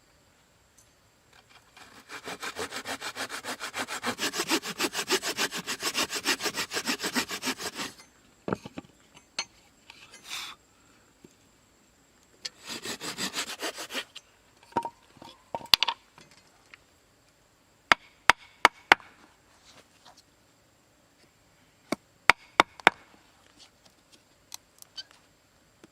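Hand saw cutting wood with quick, regular back-and-forth strokes for about six seconds, then a second, shorter bout of sawing. After that come scattered sharp knocks of wood being handled.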